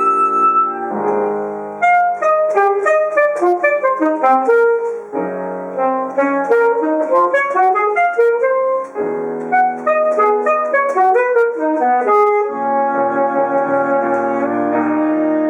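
Alto saxophone and piano playing a fast passage of rapid running notes and chords. About twelve seconds in, this settles into long held notes over sustained piano chords.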